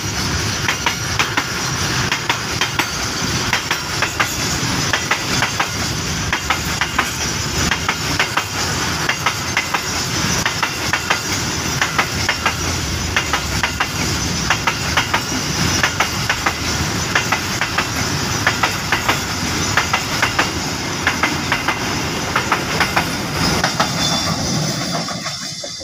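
Long container freight train of loaded flatcars passing close by: a steady rolling rumble with rapid clickety-clack of wheels over the rail joints. The sound fades away near the end.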